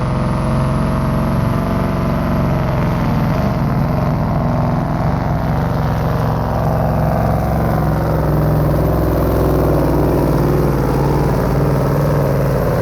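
Scania 143 pulling truck's V8 engine running hard under full load as it drags the pulling sled, with a faint high whine rising slowly in pitch over the first half; the sound drops off sharply at the very end.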